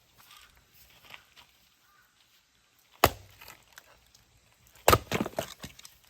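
Two sharp knocks of something hard on wood, about a second and a half apart, the second followed by a quick run of smaller knocks.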